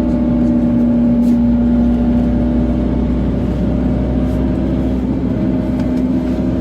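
A motor vehicle's engine running steadily with road rumble, a constant low drone with a steady hum over it.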